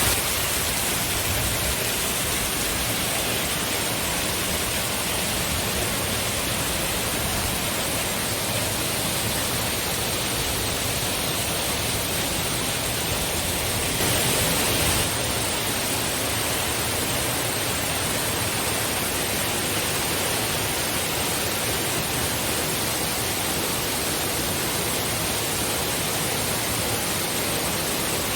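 Steady rush of fast-flowing water, a loud even hiss with no break, swelling slightly for about a second near the middle.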